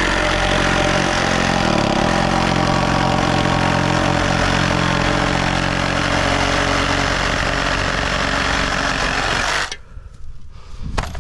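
An engine running steadily close by, then cutting off suddenly near the end.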